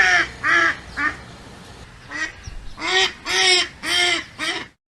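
Swan calling: a series of short, nasal honks, four close together, then after a pause of about a second another run of five.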